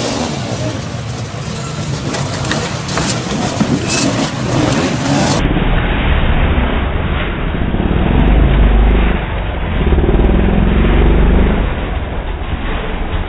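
Motorcycle engines running and revving during a race, with a heavy low rumble from about five seconds in.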